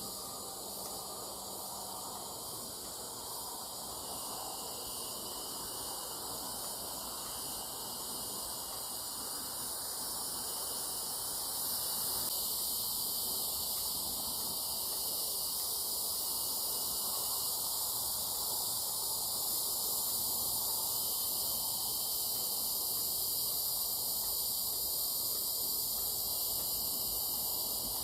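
Steady high-pitched chorus of insects, continuous and shrill, getting somewhat louder about twelve seconds in.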